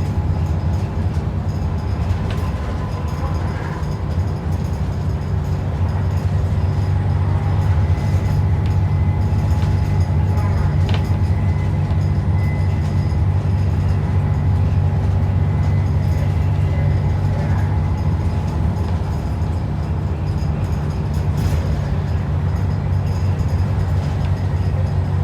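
ADL Enviro400 double-decker bus heard from inside the cabin: a steady low engine and driveline drone mixed with road noise, with a faint high whine through the middle.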